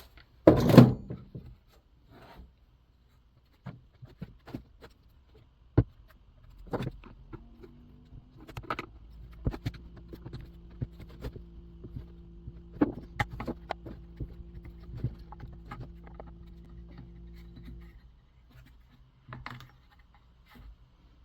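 Hand tools clicking and knocking against the plastic and metal parts of a chainsaw as its intake piece is worked loose, a scattering of short sharp ticks and taps. A steady low hum comes in about a third of the way through and stops suddenly near the end.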